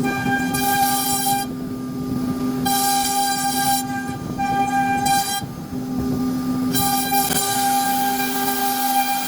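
CNC router spindle running with a steady high whine, a brighter, harsher cutting layer cutting in and out roughly every second as the bit works through the wood.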